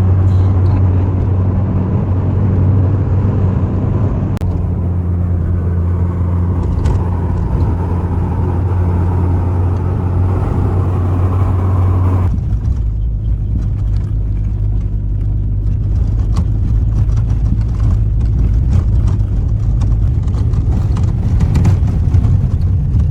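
Car cabin noise while driving: a steady low engine and road drone. About halfway through, the noise changes suddenly to a rougher rumble with scattered small clicks and rattles.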